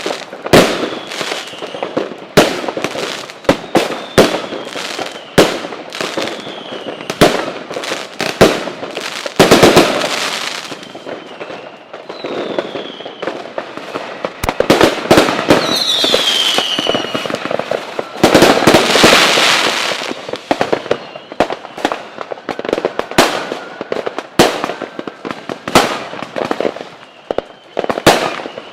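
Fireworks display: rapid sharp bangs of bursting shells, with stretches of dense crackling. A few whistles fall in pitch, the clearest about halfway through.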